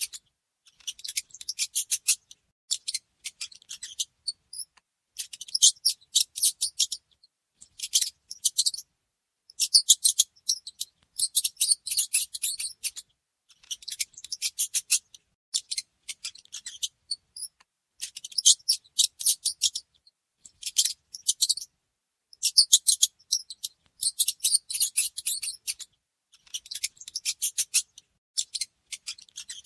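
Mice squeaking in quick, high-pitched chattering bouts of a second or two each, with short pauses between them, repeating throughout.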